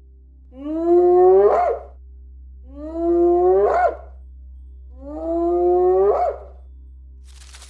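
An animal calls three times, about two seconds apart; each call is a drawn-out pitched cry of about a second that ends with a brief upward lift in pitch.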